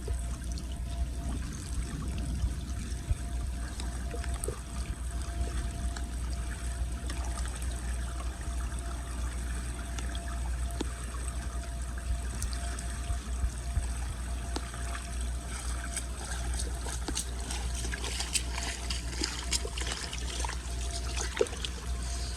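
Floodwater trickling and draining into a street storm drain, over a steady low rumble.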